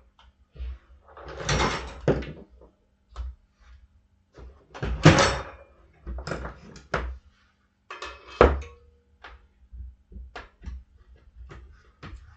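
Irregular knocks, clanks and scraping as a dirt bike tire with a mousse insert is levered over the rim with tire irons. The louder bangs come about two, five and eight seconds in, and the last is followed by a brief metallic ring.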